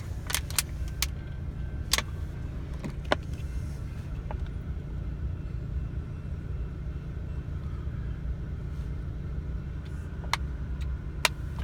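Steady low vehicle rumble heard from inside a car cabin, with a few faint, scattered clicks.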